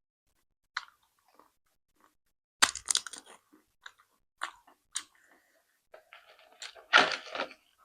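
A person biting and chewing crunchy food, with two loud crunches, one about two and a half seconds in and one near the end, and softer mouth clicks between.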